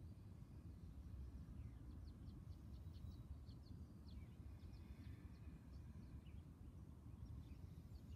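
Faint birds chirping over a low steady rumble, with a run of quick, high chirps about two to four seconds in.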